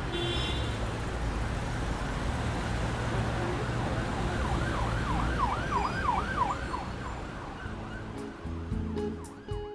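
Traffic rumble with a siren in quick up-and-down sweeps, clearest a little past the middle. A few low bass notes come in near the end.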